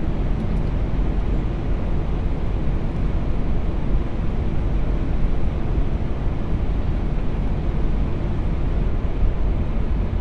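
Steady rushing noise inside an Airbus A380's flight deck on final approach with flaps full: airflow and engine noise heard from the cockpit.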